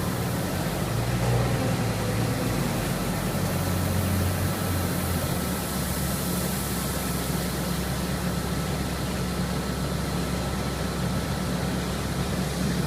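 Truck engine running steadily, its low note shifting slightly about five seconds in.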